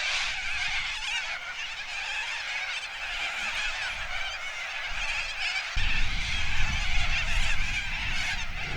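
A large flock of corellas screeching and chattering continuously, many calls overlapping. A low rumble joins about six seconds in.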